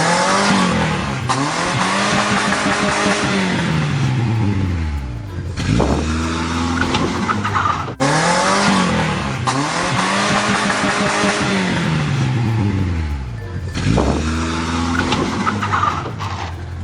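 Car engine sound effect revving up and down again and again, with tyre screeching over it. The same stretch of about eight seconds plays twice, restarting with an abrupt cut.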